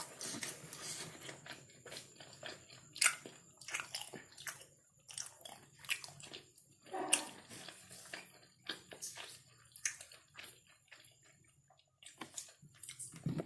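Close-up wet chewing and lip smacking of soft, stretchy kerupuk basah (temet), in irregular sticky smacks and clicks.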